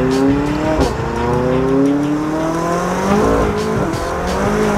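McLaren 720S twin-turbo V8 with downpipes, titanium exhaust and a tune, accelerating hard. Its pitch climbs steadily and drops sharply at upshifts, once about a second in and again past three seconds.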